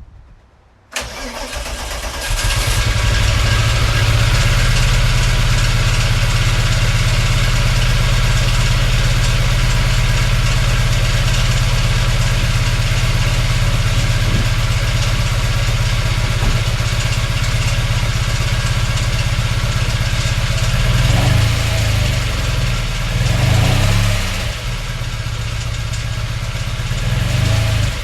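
Volkswagen VR6 narrow-angle V6 engine starting about a second in: a brief crank, then it catches and settles into a steady, loud idle. It gives a couple of short rises in revs near the end. The owner still rates the idle as poor.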